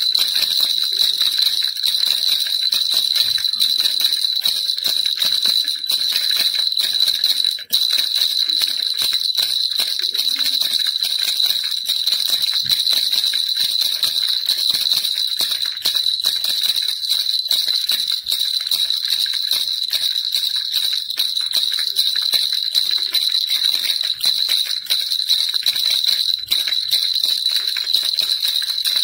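Baby rattle shaken without pause, a steady dense jingling rattle, broken once for an instant about eight seconds in.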